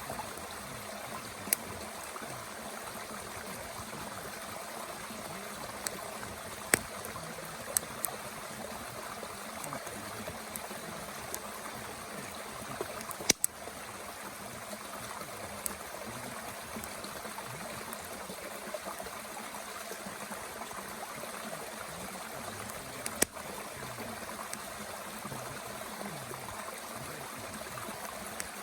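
Mountain stream flowing steadily, with a few sharp crackling pops from a wood fire burning in a small Bush Box stove.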